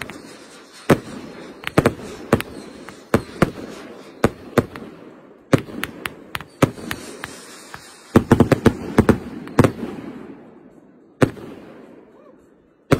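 Aerial fireworks going off: a rapid run of sharp bangs from bursting shells, with a noisy wash between them. The bangs come thickest about eight to ten seconds in, then thin to single bangs near the end.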